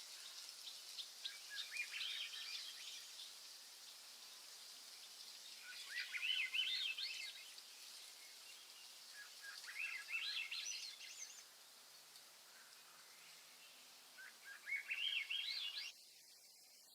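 A songbird singing four short phrases, each a quick run of notes climbing in pitch, about four seconds apart, over a steady faint hiss of outdoor background. The hiss drops away suddenly near the end.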